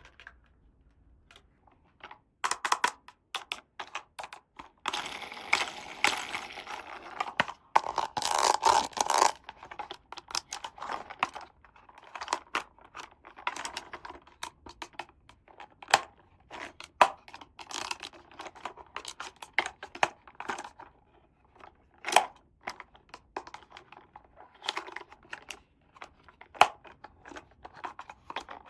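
Small plastic toy pieces and packaging being handled: a run of sharp clicks and taps, with two longer stretches of tearing, crinkling wrapping about 5 and 8 seconds in.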